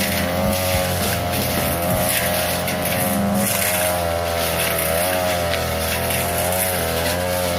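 42cc two-stroke brush cutter running at high revs, its pitch wavering as the blade cuts through tall grass and saplings.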